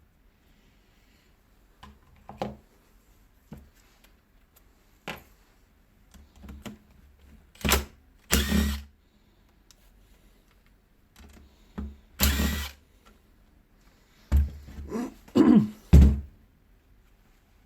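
Short bursts of a cordless screwdriver undoing the hex screws of a steel mounting bracket, with clicks and knocks of tools and metal parts in between.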